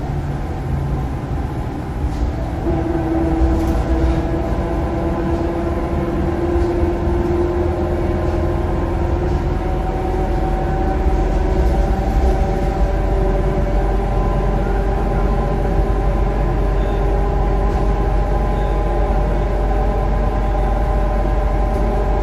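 Scania K230UB bus under way, its Scania DC9 engine and ZF Ecomat automatic gearbox giving a deep rumble with a whine of several tones. The whine rises slowly in pitch over the first half, then holds steady.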